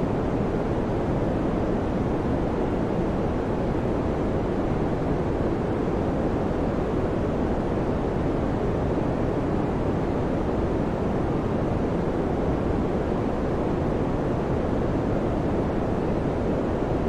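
Electric fan running: a steady, even rush of air with a deep, dull tone, no hum, rhythm or changes.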